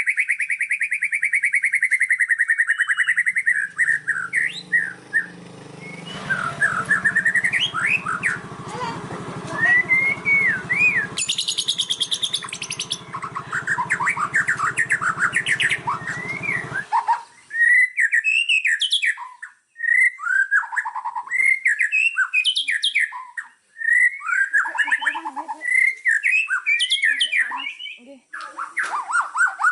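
Small songbirds singing: fast buzzy trills and varied short chirping phrases. A low background hum runs under the song for the first half and stops suddenly about 17 seconds in, where the recording changes abruptly, as it does several times.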